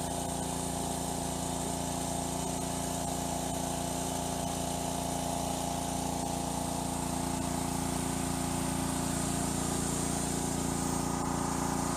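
A motor or engine running at a steady speed, giving an even, unchanging hum.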